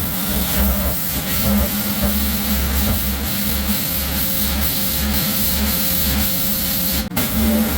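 Pressure washer running: a steady hiss of spray over a low motor drone. It briefly cuts out about seven seconds in.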